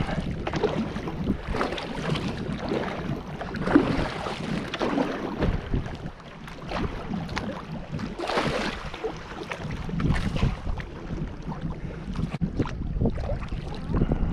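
Kayak hull scraping and knocking over a shallow riverbed as it is paddled along, in uneven bursts, with wind rumbling on the microphone.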